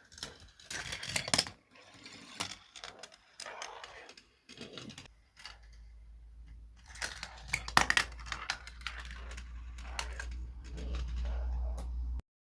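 Marbles clicking and rattling on a plastic Gravitrax marble-run track: irregular sharp clicks and clatters, with a low rumble joining about halfway, cutting off just before the end.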